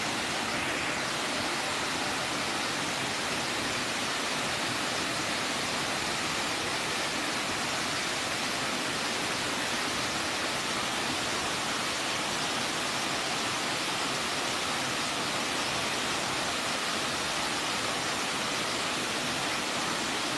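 Waterfall: a steady rush of falling water, an even hiss that never lets up.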